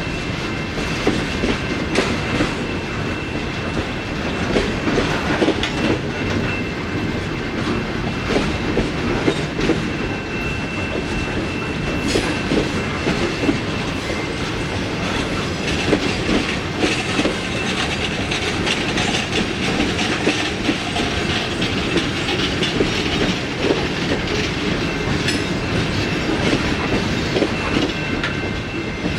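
Railroad cars rolling past on the rails: a steady rumble with repeated clickety-clack of wheels over rail joints and a faint steady high-pitched tone.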